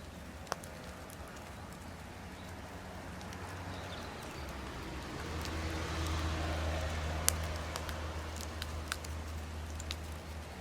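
Wood campfire crackling, with scattered sharp pops and a swell in the fire's noise partway through; the loudest pop comes a little after the middle.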